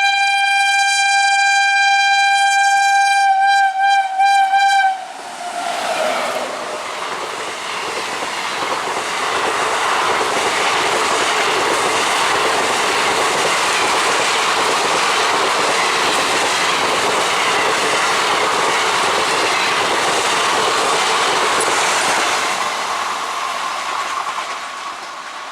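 An Indian electric train's horn sounds one long steady blast, breaks into short pulses about three seconds in, then falls in pitch as the train goes by. The train then rolls past the level crossing with steady wheel-on-rail clatter that eases near the end.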